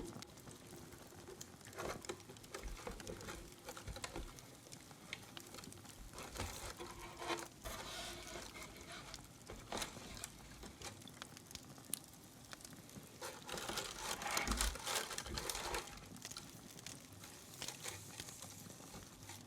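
Close-miked rustling and crinkling as a box is opened and its contents handled, with scattered small taps and clicks; the handling is busiest twice, about a third of the way in and again past the middle.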